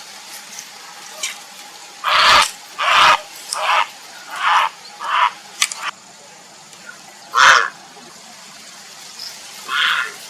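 Grey heron giving a series of about eight short, harsh, croaking calls at irregular intervals, the loudest about seven and a half seconds in.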